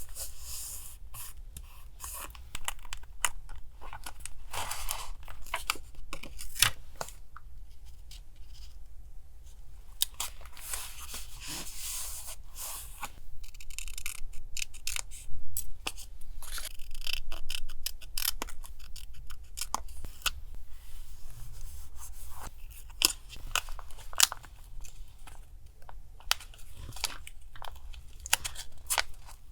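Paper collage work: paper rustling, being cut and torn, with many small sharp clicks and taps, over a low steady hum.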